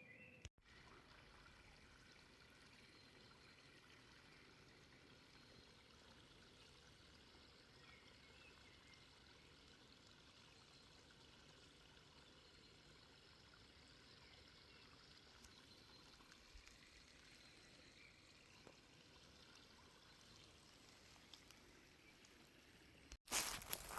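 Faint, steady running water of a spring or small stream. Near the end it cuts off abruptly and louder noises begin.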